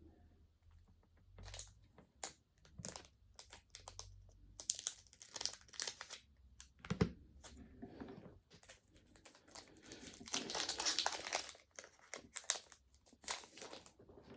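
Foil Pokémon booster pack wrapper crinkling and being torn open, in irregular stretches of crackling, the longest about ten seconds in.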